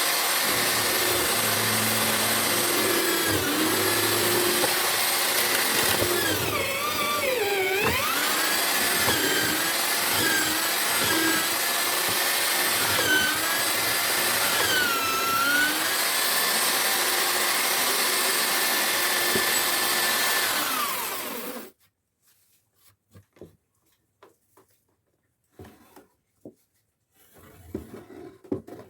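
Homemade drill-powered wood mortiser running, its motor pitch sagging and recovering several times as the chisel is plunged into the wood, then switched off about 22 seconds in. After that only a few faint light knocks.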